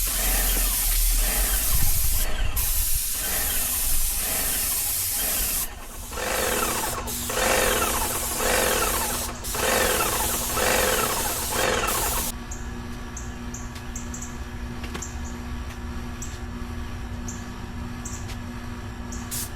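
Paint sprayer spraying paint with a steady hiss, cut into short bursts by repeated trigger pulls about a third of the way in. Around two-thirds in the spraying stops and the sprayer's pump is left running with a quieter steady hum and light ticking.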